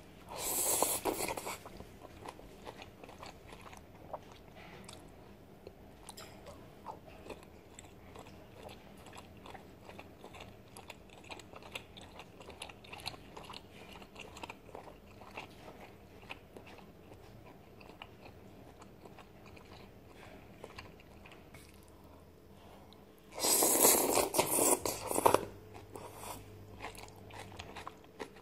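Close-miked chewing and crunching of a mouthful of noodles and bean sprouts, a steady patter of small wet mouth clicks. Two loud slurps of noodles break in, one right at the start and a longer one about three-quarters of the way through.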